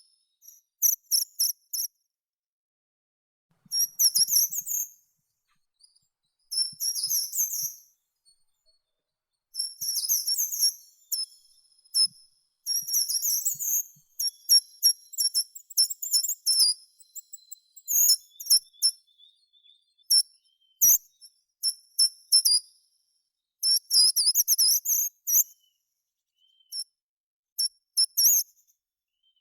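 A songbird singing in short, high-pitched phrases of quick chirps and trills, repeated every two or three seconds with silent pauses between.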